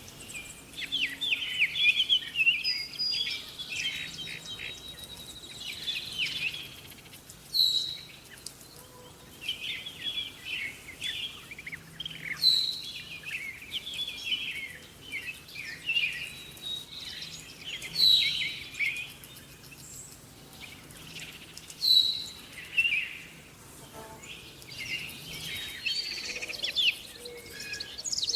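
Songbirds chirping and singing, with many short overlapping calls. One bird repeats a brief, sharp, downward-sliding note every four to five seconds.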